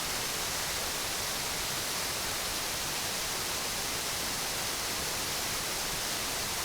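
Loud, steady rush of a waterfall swollen by heavy rain, an even hiss with no breaks.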